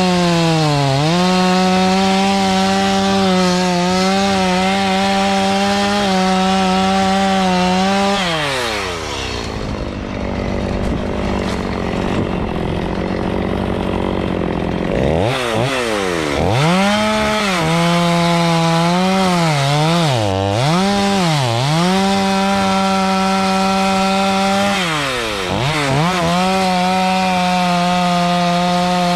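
Two-stroke chainsaw running at high revs and cutting wood. Its pitch sags repeatedly as the chain bogs under load and then picks back up. For several seconds near the middle the steady engine note gives way to a coarse, even cutting noise.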